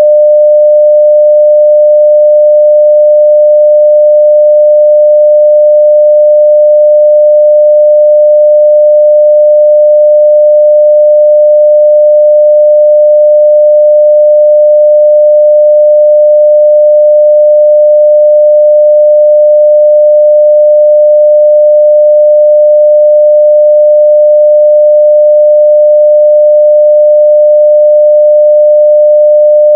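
Continuous 600 Hz sine-wave test tone at full level (0 dB), one steady pure pitch without change.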